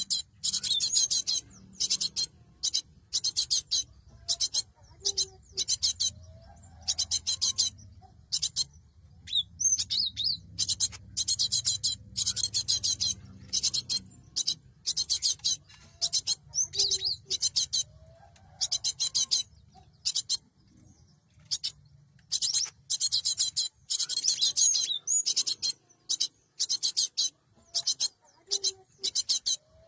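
Cinereous tit (gelatik batu) calling in repeated bursts of rapid, high notes. Each burst lasts about one to two seconds, with short pauses between them.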